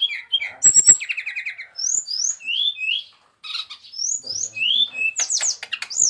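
Brown-chested jungle flycatcher singing: a rapid run of short, clear whistled notes, each sliding up or down, with a brief pause a little after three seconds in. A few sharp clicks just under a second in.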